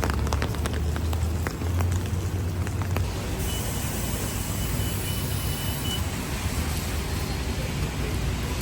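Steady heavy rain with traffic on the wet road: a vehicle's low engine rumble and scattered drops ticking close by in the first few seconds, then a brighter hiss of tyres on wet pavement.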